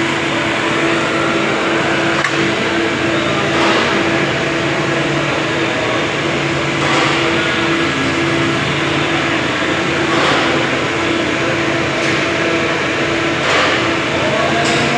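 A machine running steadily with a constant hum, with a short whooshing surge about every three seconds.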